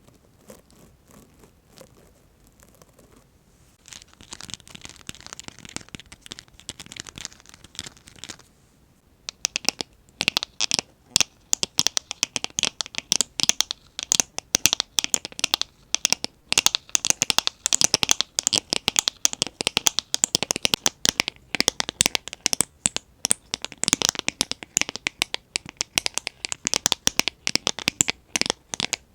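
Dense, rapid crackly clicking and scratching on an ASMR 'cubic plate', a plate studded with small cubic gems. It starts softly about four seconds in and becomes a loud, fast, continuous clatter of tiny clicks from about nine seconds on.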